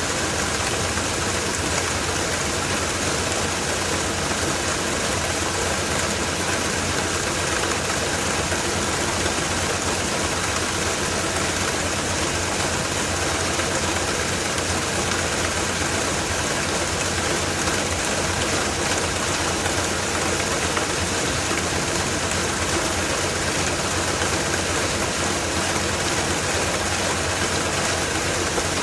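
LG WT-R852 TurboDrum top-loading washing machine running with a full load of bedding: a steady, even mechanical hum and whir with no breaks or changes.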